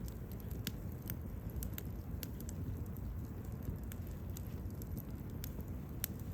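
Wood campfire burning, with irregular sharp pops and crackles over a low steady rumble of the flames; one louder pop near the end.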